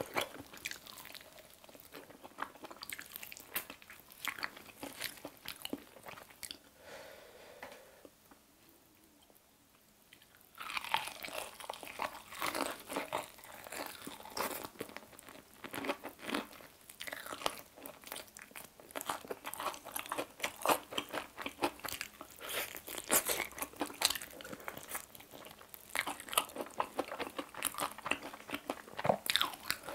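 Close-miked crunching and chewing of crispy fried chicken, a drumstick bitten and eaten with the crunching coming in quick irregular clicks. Around a third of the way through there is a short quiet pause before the crunching picks up again.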